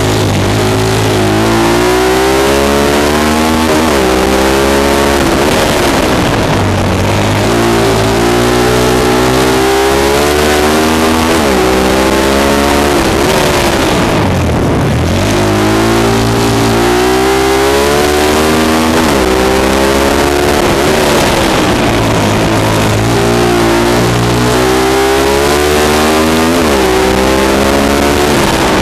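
Honda XR100 dirt bike's single-cylinder four-stroke engine on hard throttle, its revs climbing in steps as it pulls through the gears and then falling away sharply when the throttle is closed. The cycle repeats about every six or seven seconds: accelerating on the straights and backing off into the turns of a flat track.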